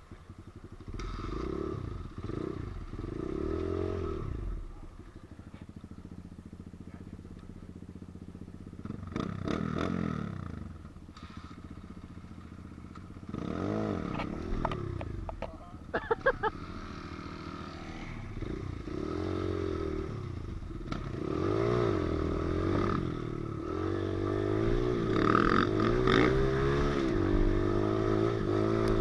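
Pit bike's small single-cylinder engine being ridden, revving up and dropping back again and again as the throttle is worked. There is a quick run of sharp clicks about halfway through, and the engine gets louder and steadier near the end.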